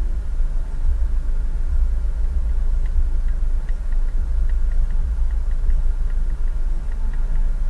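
Low, steady rumble of a car driving, as picked up by a dash cam, with faint light ticking from about three seconds in.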